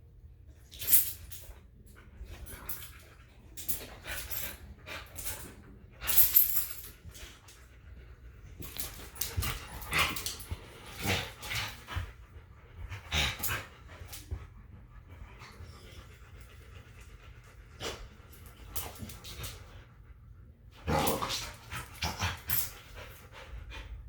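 Dogs playing, giving short barks and other brief vocal sounds in scattered bursts, with a busy stretch in the middle and another cluster near the end.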